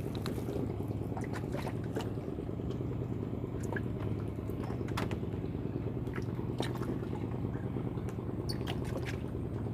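River water lapping and dripping, with scattered small ticks and splashes over a steady low hum.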